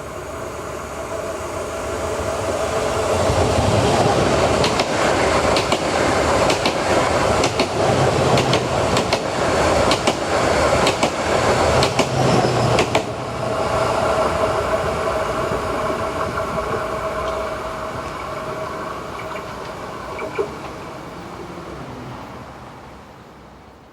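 A train passing close by, its sound building up over the first few seconds. For several seconds its wheels clatter with a quick run of knocks over the rail joints. It then eases away with a steady hum and a lingering tone, and fades out at the end.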